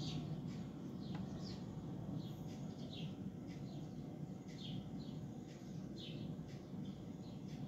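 Birds chirping: short, falling chirps, irregularly spaced, over a steady low rumble.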